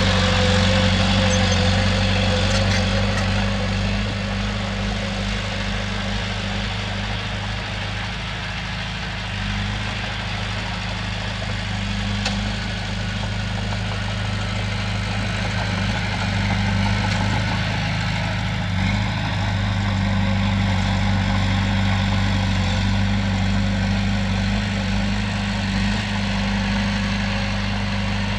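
Heavy diesel engine running steadily with a low, even hum, likely earthmoving machinery at work.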